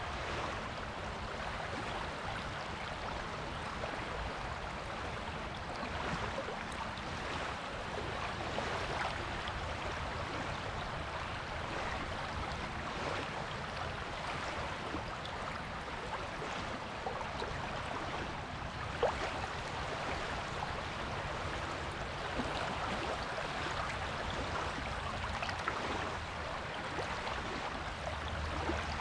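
Small waves washing onto a beach: a steady hiss of surf with fine crackling of water running over the shore, and one brief sharp click about two-thirds of the way through.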